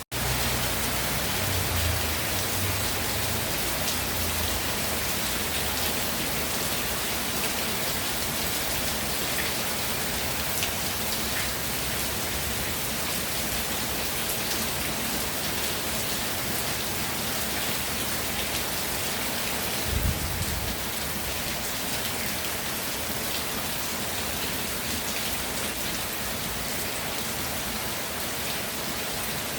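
Steady heavy rain falling on the ground and nearby surfaces: a dense, even hiss of drops. About twenty seconds in there is one brief low thud.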